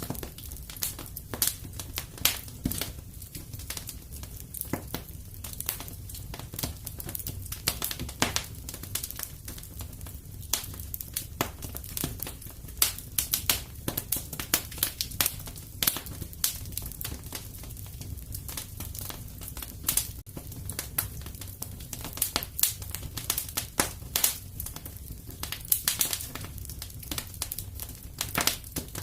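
Wood fire in a fireplace crackling and popping: irregular sharp snaps, several a second and some louder than others, over a steady low rumble of the flames.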